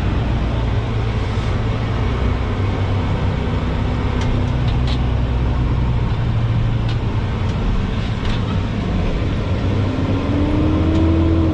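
Heavy dump truck's diesel engine running under load as the truck strains to reverse and won't back up, because its pusher axles are still lowered. Near the end the engine gets a little louder and a whine rises in pitch.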